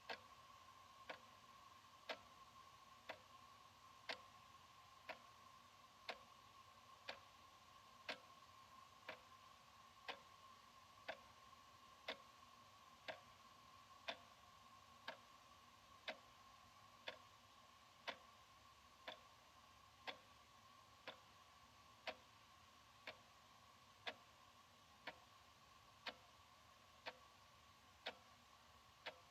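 Analog wall clock ticking steadily, one sharp tick a second, over a faint steady hum.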